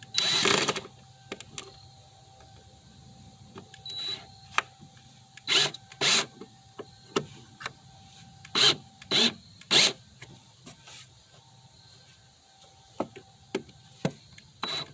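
Shortened wood screws being turned into wooden drawer rails: about ten short, loud scraping strokes at irregular intervals, with small clicks between. The screws are not pulling in flush, which is the sign that the holes need countersinking.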